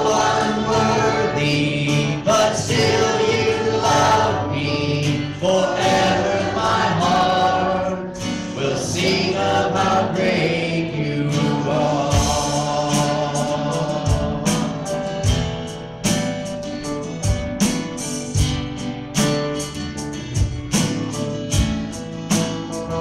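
Christian worship song with a choir singing over instruments; about halfway through, a drum beat comes in.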